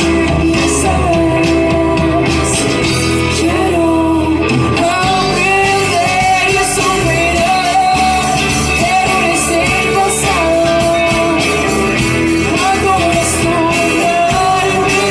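Live rock band playing a song, with amplified guitars, bass, drums and a singer.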